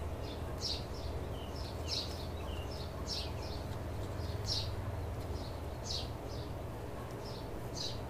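Small birds chirping, a string of short high chirps about twice a second, over a low steady hum.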